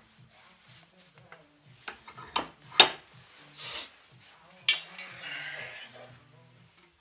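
Steel parts and tools clanking against each other, with several sharp clinks and a couple of short scrapes of metal on metal.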